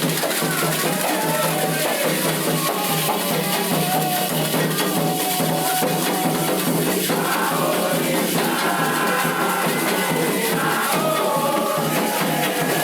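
Candomblé ritual music: voices singing a chant over hand drums and shaken rattles, with a dense, steady percussion beat.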